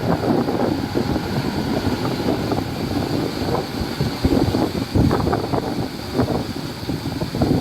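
Diesel engine of heavy earthmoving machinery running, with irregular crackling and clatter over a continuous rumble, and wind buffeting the microphone.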